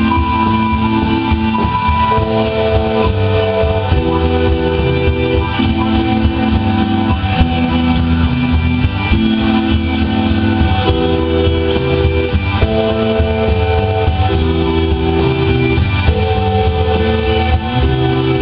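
Live rock band playing an instrumental passage: guitar over bass and drums, with synthesizer, in held chords that change every second or two.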